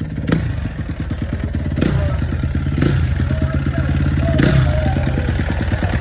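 Honda CRF250 single-cylinder four-stroke motorcycle engine running steadily, a little louder about two seconds in. Four sharp clicks sound over the engine.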